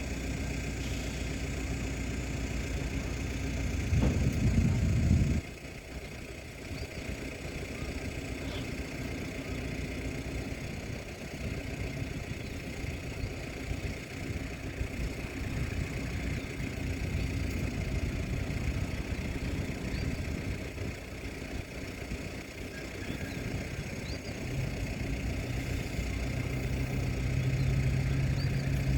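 Tugboat diesel engine running steadily. About four seconds in there is a louder low rumble for about a second and a half, and near the end a deeper steady drone joins in and the sound grows louder.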